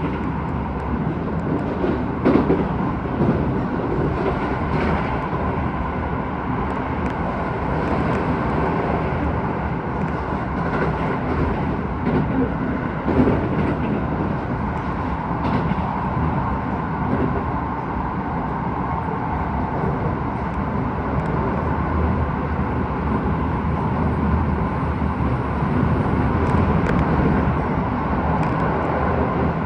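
Keisei 3000 series electric train running between stations, heard from inside the car: a steady rumble of wheels on rail, with a few sharper knocks.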